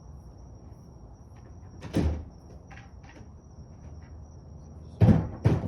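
Three dull thuds of things being handled or shut: one about two seconds in, then two close together near the end.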